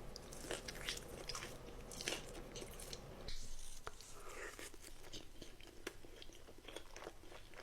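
Close-miked eating: bites and crunchy chewing, with a run of short crisp crackles and wet mouth clicks.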